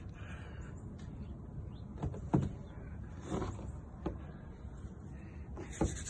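A few short knocks and scrapes over a low rumble, the loudest about two and a half seconds in.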